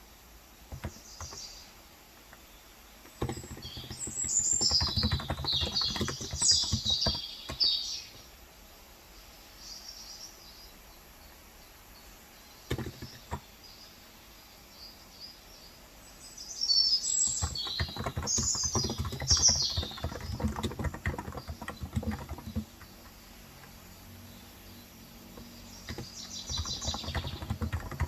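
Bursts of typing on a Cox Endeavor electro-capacitive 35 g tenkeyless keyboard: runs of quick key presses a few seconds in, again from about 17 s to 22 s, and near the end, with pauses between. Birds chirp in short high phrases over the typing.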